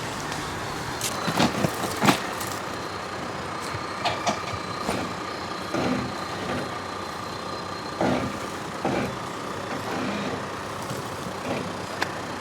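Off-road vehicle engine running at low speed over rock, with irregular knocks and clunks scattered through it.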